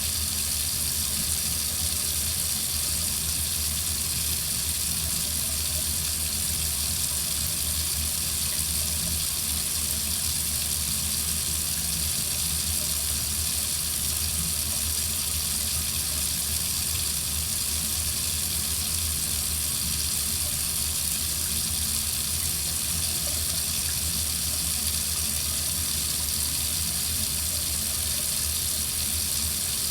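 Water running steadily from a tap into a sink, an even splashing hiss that does not change.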